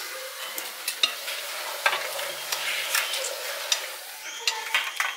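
Food frying and sizzling in a pan while being stirred, with sharp clicks and scrapes of a utensil against the pan.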